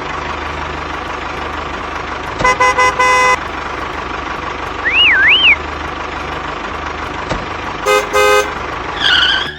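A truck engine running steadily, with a quick series of horn toots about two and a half seconds in and again near eight seconds. A warbling whistle rises and falls twice in between.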